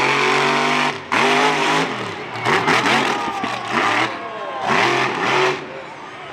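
Monster truck engine held at high revs, cutting out sharply about a second in, then blipped in four short revs that each rise and fall in pitch.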